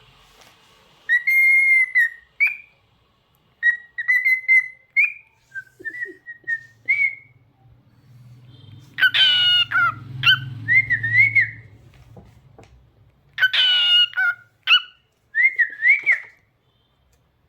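Cockatiel whistling its song in short rising and wavering notes, broken twice in the second half by louder, rougher calls.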